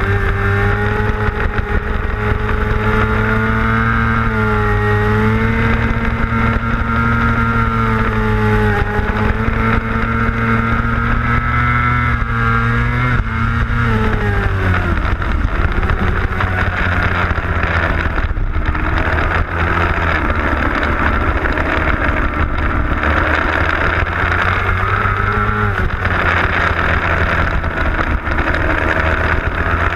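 600cc racing motorcycle engine heard onboard at speed, holding a high, slightly wavering pitch. About 13 seconds in the pitch falls as the bike slows, and wind rush takes over until the engine tone returns near the end.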